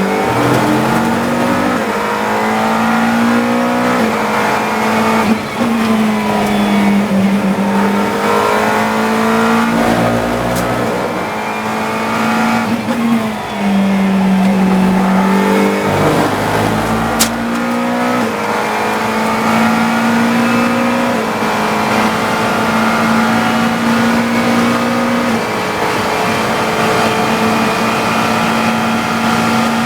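GT3 race car engine heard from inside the cockpit, revving up through the gears with quick gear changes and dropping in pitch as it slows for corners several times.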